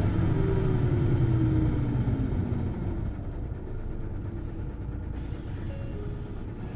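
Hino Blue Ribbon City Hybrid bus heard from on board: its running note falls in pitch and fades over the first couple of seconds as the drivetrain winds down, leaving a steady low rumble.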